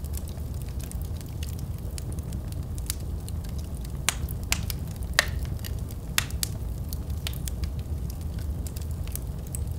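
Wood fire burning in a fireplace: a steady low rumble of the flames with scattered sharp crackles and pops, a few louder pops around the middle.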